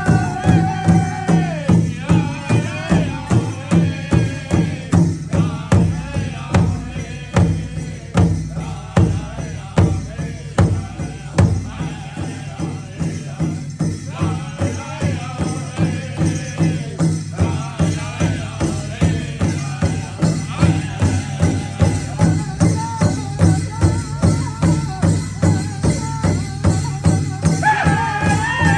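Ojibwe drum song: a drum beaten in a steady, even pulse of about two to three beats a second, with high singing voices over it at the start and again near the end.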